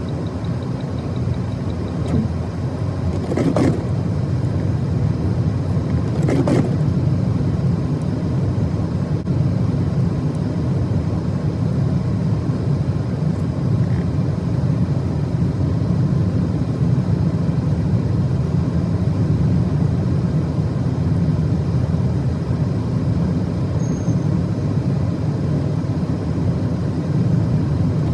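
Car driving on a snowy road: a steady low rumble of engine and tyre noise, with two short knocks about three and six seconds in.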